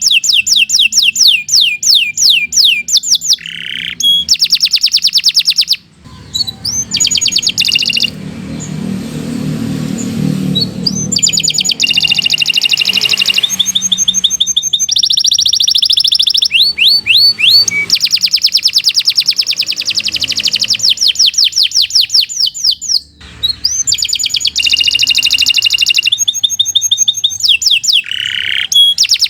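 Domestic canary singing a long, fast song: rapid trills of repeated high notes in phrase after phrase, with a couple of brief breaks.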